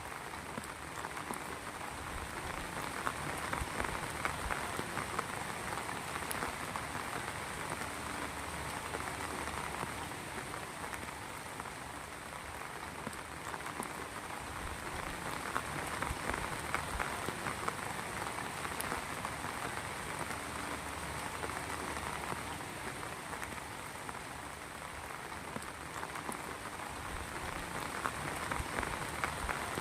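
Heavy rain falling steadily, a dense patter of drops on a hard surface that swells and eases a little every few seconds.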